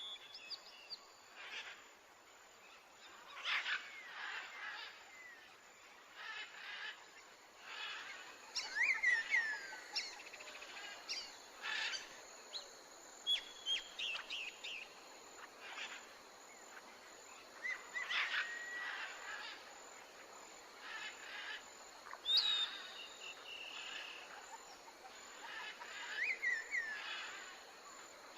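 Small birds chirping and singing, with short rising and falling whistles, over a soft nature-ambience background. Brief scratchy taps and rustles come through repeatedly between the calls.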